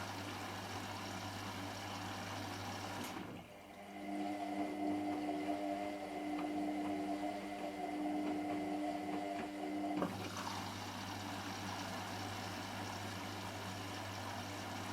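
Washing machine running mid-cycle with a steady low hum. It changes abruptly a few seconds in to a pump whining with water flowing through the machine. About six seconds later it switches back just as suddenly to the steady hum.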